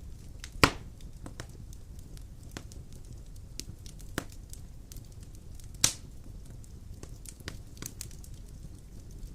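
Large logs burning in a stone fireplace: a low steady rumble of flame with scattered wood crackles and pops, two sharp loud pops about two-thirds of a second in and near six seconds in.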